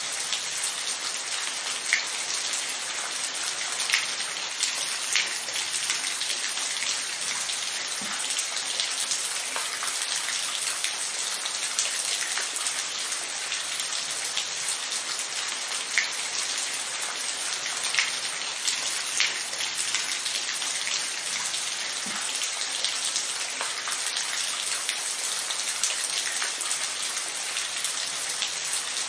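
Steady rain: an even hiss with single drops now and then striking a little louder.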